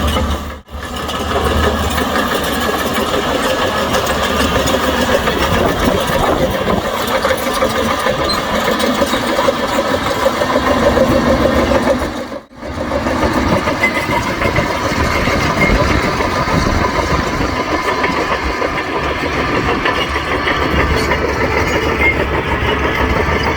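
Diesel engine of heavy earthmoving equipment running steadily under work. The sound drops out briefly about a second in and again about halfway through.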